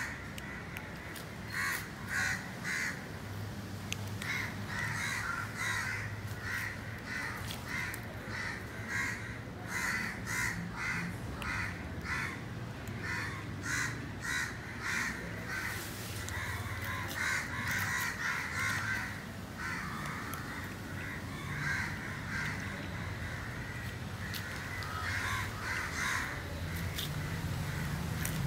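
Birds calling over and over in short, repeated calls, the loudest sound throughout. Under them come scattered crunches as two cats chew dry kibble.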